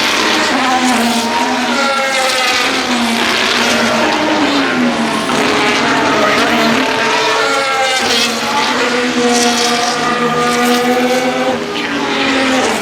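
2025 Formula 1 cars' 1.6-litre turbocharged V6 hybrid power units running at racing speed past the track, one car after another, each engine note sweeping down in pitch as it goes by and climbing again.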